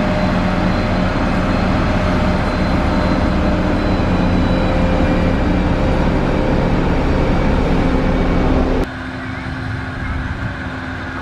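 Heavy construction machine's engine running steadily under load. About nine seconds in the sound cuts abruptly to a quieter engine sound.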